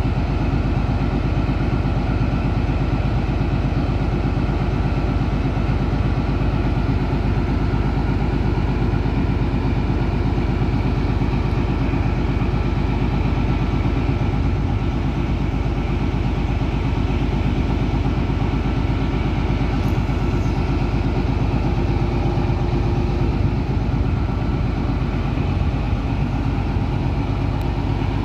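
Diesel engine of an XPT power car idling steadily: a deep, even hum with a faint high whine over it.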